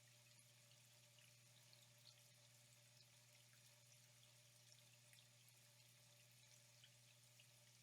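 Faint, steady flowing water, a soft hiss dotted with many small droplet splashes, over a steady low hum.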